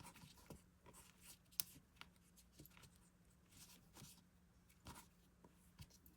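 Near silence with faint scattered rustles and light ticks of yarn and a crocheted piece being handled, with one sharper tick about a second and a half in.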